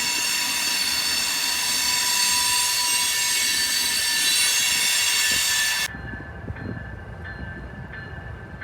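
Metra commuter train passing, its steel wheels squealing on the rail in several high steady tones over the running noise. About six seconds in the squeal cuts off suddenly, leaving a quieter low rumble of the train.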